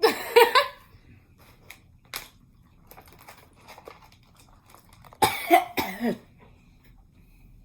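A person coughing from the heat of a very spicy snack, having breathed in the spice: a fit of coughs at the start and another about five seconds in.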